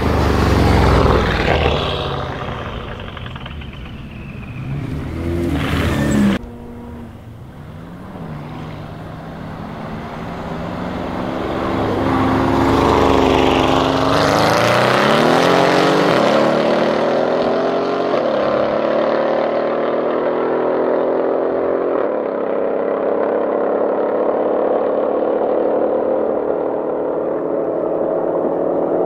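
A Brabus-tuned Mercedes engine and exhaust at full throttle. A loud sweep at the start cuts off abruptly about six seconds in. From about twelve seconds the engine note climbs steadily in pitch as the car accelerates hard and fades into the distance.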